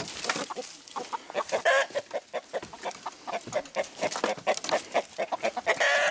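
Several chickens clucking and squawking in quick, agitated succession as they are chased out of the garden, with a couple of longer squawks mixed in.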